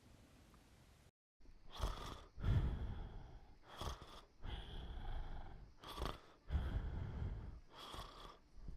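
A sleeping person snoring, with rough, rattling snores about every two seconds, each followed by a short breathy puff. They start after a brief silence about a second in.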